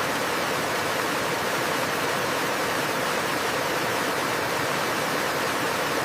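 Steady, even rush of falling water, unbroken and unchanging.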